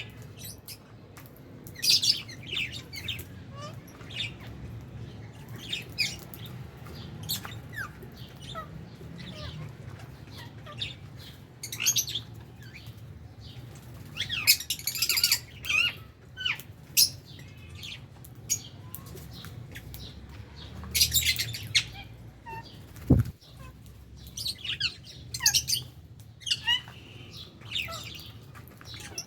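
A flock of lovebirds chirping and squawking in short, sharp, high calls, scattered irregularly, over a steady low hum. A single thump sounds about three quarters of the way through.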